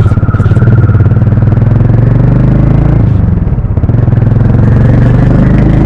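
Harley-Davidson X440's single-cylinder engine and exhaust running loudly while the motorcycle is ridden, a fast steady thud that eases briefly about three seconds in and then picks up again.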